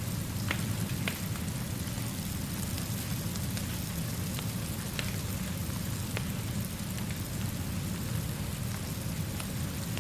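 Steady rainfall with a low rumbling undertone, and a few sharp ticks scattered through it.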